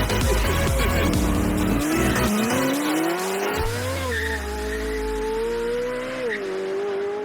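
Electronic music with a beat, which gives way about two seconds in to a high-revving car engine that rises steadily in pitch and then holds near the top until it cuts off suddenly.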